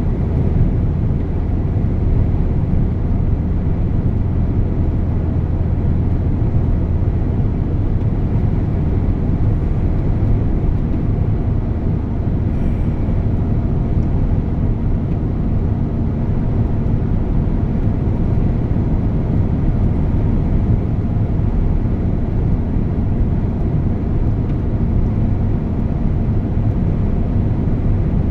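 DAF truck driving along, its engine and road noise a steady low drone. A faint steady hum joins about eleven seconds in.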